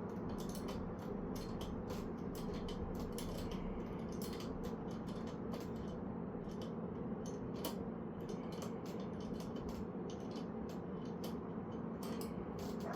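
Irregular small mechanical clicks and ticks, several a second, from hand work on lowrider bicycle parts, over a steady low hum.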